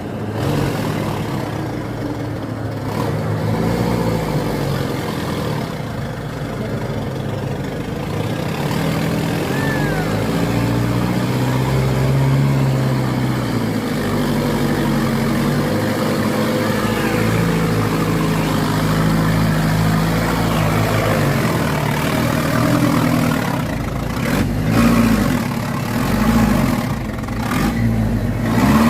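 Diesel truck engine, a Fuso HD dump truck, running under heavy load and revving up and down repeatedly as the truck strains to get moving.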